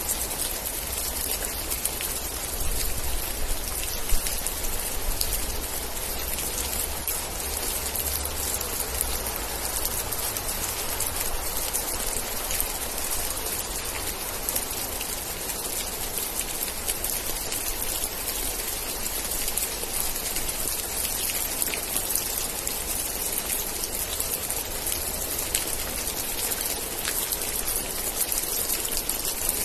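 Steady rain falling, with many individual drops ticking. A low rumble sits beneath it, strongest during the first third or so.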